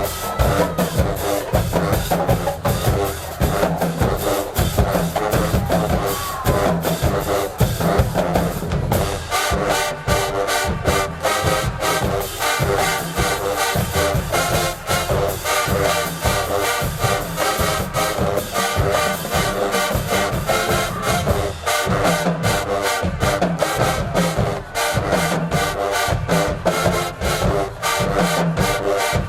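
HBCU marching band playing: brass section over bass drums and snares, loud and continuous, the horns' sound changing about nine seconds in.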